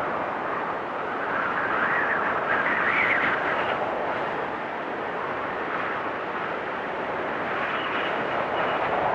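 Storm wind blowing in gusts, with a whistling note that rises about two to three seconds in and then eases, and a faint thin whistle near the end.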